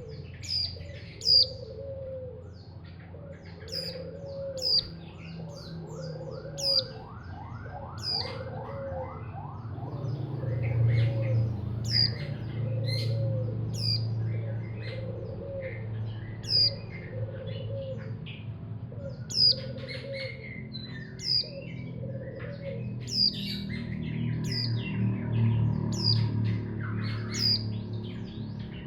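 Mountain white-eye (pleci montanus) giving short, sharp, high chirps that drop in pitch, repeated at irregular intervals. Under them runs a lower call repeated about once a second through the first half, over a steady low hum.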